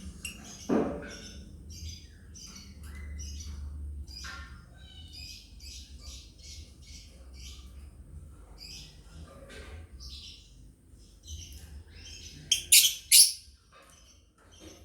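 Lovebirds chirping in a quick run of short, high calls, with a louder, lower sound about a second in and a burst of loud, shrill calls near the end.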